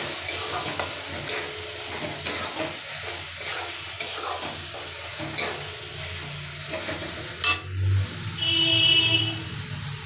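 Masala of ginger-garlic paste and ground spices sizzling in oil in a steel kadai while a steel spatula stirs it, with irregular scrapes and clinks of the spatula against the pan, the sharpest about seven and a half seconds in. This is the bhuna stage, the masala being fried dry before water is added.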